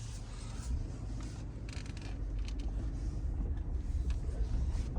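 Pickup truck running slowly, a steady low rumble with a few faint clicks.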